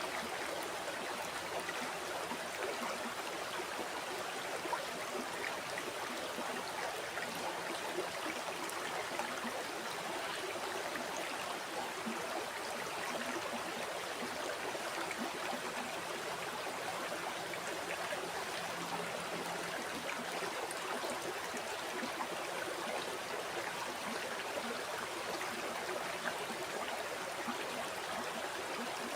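Flowing river or stream water running steadily over rocks, an even rushing and trickling with no breaks.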